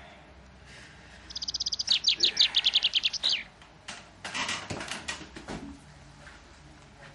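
A bird's rapid trill of short chirps, about ten a second, growing louder for about two seconds. It is followed by soft rustles and bumps as someone gets up off a couch.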